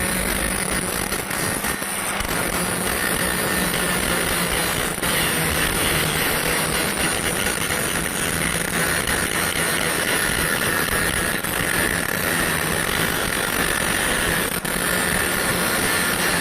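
Electric welding arc crackling steadily, with a faint low hum underneath.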